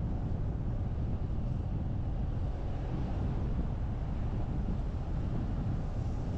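Steady low rumble of a car driving along a road: even road and wind noise with no changes or distinct events.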